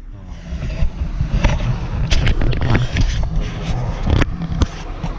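Car engine idling, heard from inside the cabin as a steady low rumble, with several scattered knocks and clicks.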